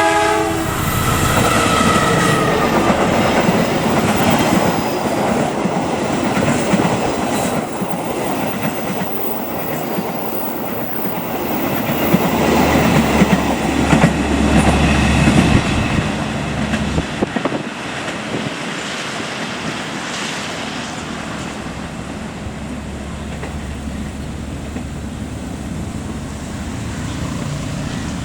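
Passenger train passing close by, a blast of its horn ending at the start, then the rumble and clatter of the carriages on the rails, loudest around the middle. It eases into the steady hiss of heavy rain near the end.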